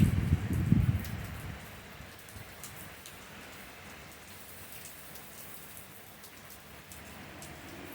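Heavy thunderstorm rain falling steadily as an even hiss with scattered drop ticks. A gust of wind rumbling on the microphone dies away about a second in.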